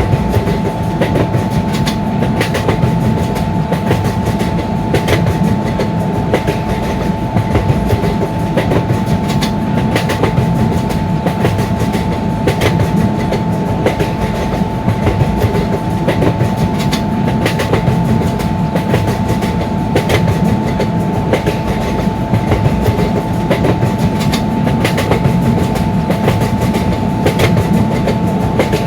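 A long train running past at speed. Its wheels clatter over the rail joints in a dense, continuous racket over a low rumble, with a steady high tone held throughout.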